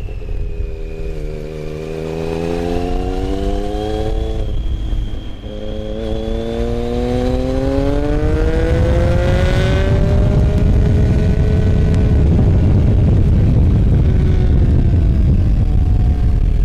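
Motorcycle engine accelerating: its pitch climbs, breaks at a gear change about five seconds in, climbs again, then holds fairly steady at cruising speed, over a heavy low rumble.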